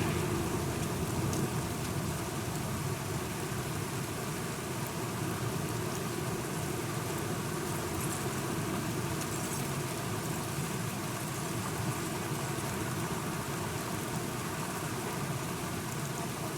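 Steady rain falling in a thunderstorm, with a low continuous rumble underneath.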